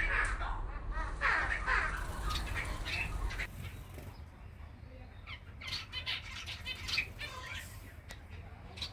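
Australian zebra finches calling: a flurry of short, nasal beeping chirps, busiest in the first few seconds, with another cluster about six to seven seconds in, over a low steady hum.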